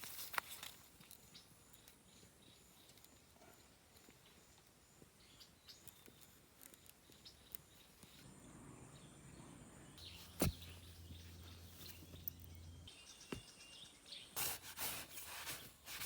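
Faint outdoor field ambience with scattered small clicks and rustles. There is a single sharp knock about ten seconds in, and louder rustling near the end.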